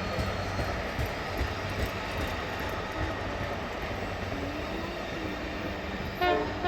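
Train running on the rails, a steady rumble and rolling noise from the GP20C diesel locomotive and its cars. A brief, loud pitched sound comes in near the end.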